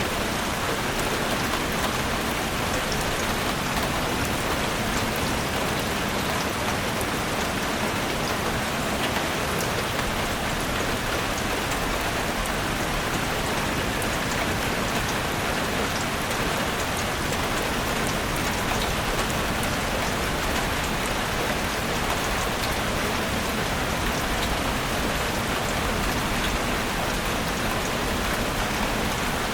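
Steady rain falling, a continuous even hiss dotted with many small drop ticks.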